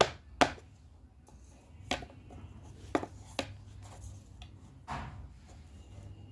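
Handling noises: about six sharp clicks and taps of small objects on a hard surface, spaced irregularly, with faint rubbing between them.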